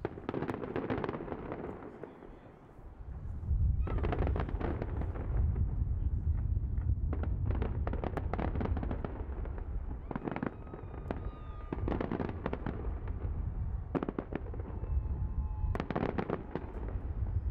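Fireworks bursting: waves of dense crackling reports over booms. A heavy low rumble joins in about three and a half seconds in and carries on underneath.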